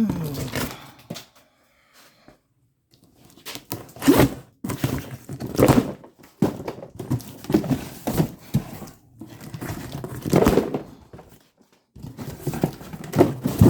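Old parts and hardware being rummaged through and handled by hand: irregular bursts of knocking, scraping and crinkling, separated by short pauses.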